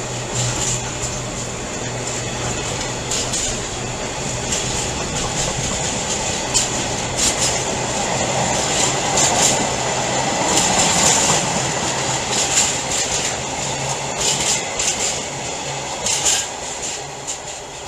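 A train running through the station, its wheels clattering over rail joints, with a steady low hum underneath and short high squeals from the wheels. The sound builds to its loudest near the middle and eases toward the end.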